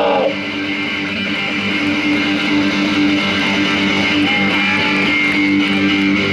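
Live rock music: a guitar strumming and holding chords through an instrumental break, with a sung word trailing off in the first moment.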